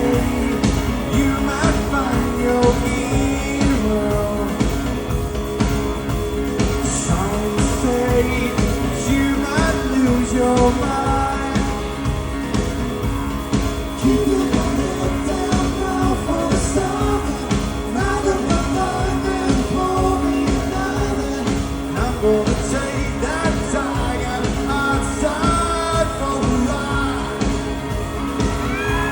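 Live rock band performing, with a male lead vocal over drums, bass and guitars, the drums keeping a steady beat.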